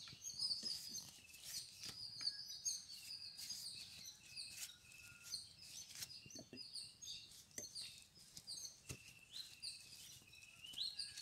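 Small birds chirping over and over in short high calls, with a few faint taps and rustles mixed in.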